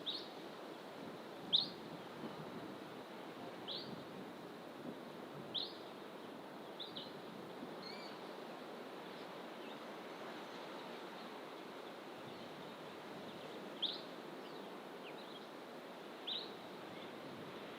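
A wild bird calling in fynbos bush: short, sharp, high notes that fall in pitch, given singly every few seconds with a long pause in the middle, over a steady low rush of background noise.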